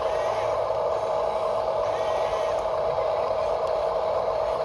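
Small electric motors and gearboxes of radio-controlled construction models running with a steady whir.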